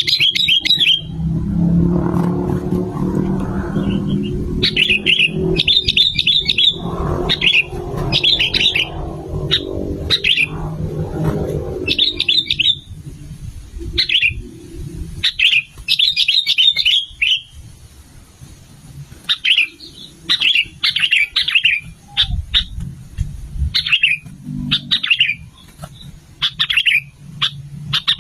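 Sooty-headed bulbuls (kutilang) calling in short, repeated chirpy phrases, with brief pauses between bouts. A low rumble sits under the calls for roughly the first twelve seconds and returns briefly near the end.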